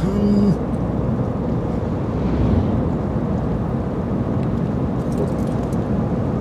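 Steady road and engine noise inside a moving car's cabin, with a short spoken exclamation at the start.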